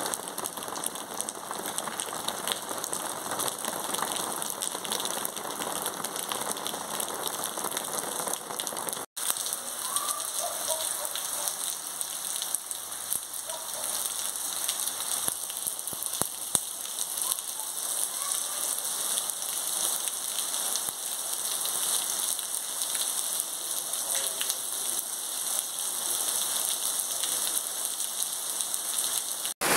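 Steady rain falling on a wet street, an even hiss of drops. The sound cuts out for a moment about nine seconds in.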